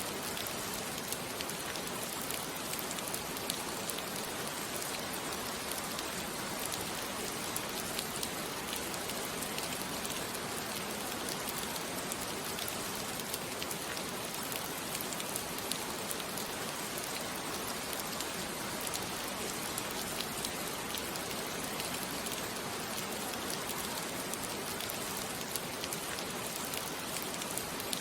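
Steady rain falling on a surface, an even hiss of rain with many small drop ticks, with no change in intensity.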